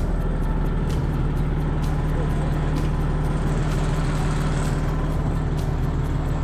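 Case 2670 four-wheel-drive tractor's diesel engine running steadily under load, a constant low hum, with faint light ticks about once a second.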